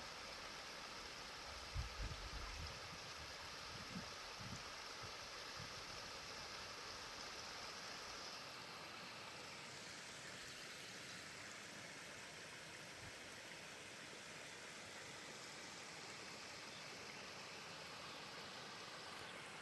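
Running water of a stream: a steady, even rush. A few low bumps come in the first few seconds.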